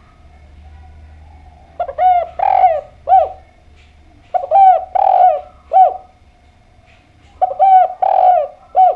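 Spotted dove cooing: three repeated phrases, each of about four notes with one longer middle coo, the notes dropping in pitch at their ends.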